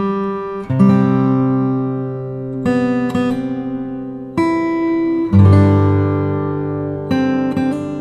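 Background music: acoustic guitar chords strummed and left to ring, a new chord every second or two.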